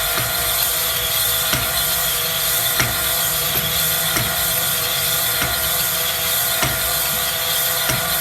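A workshop machine running steadily with a constant hum of several tones, and a light click about every 1.3 seconds.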